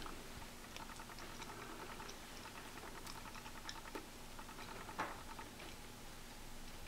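Quiet chewing of a bite of soft chicken parmesan with the mouth closed: faint, irregular wet mouth clicks and smacks, with a slightly louder click about five seconds in.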